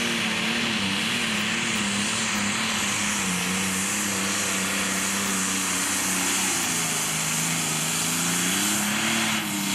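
Pro Stock pulling tractor's turbocharged diesel engine running hard under load, with a high hiss over a steady engine note whose pitch sags twice and climbs back near the end.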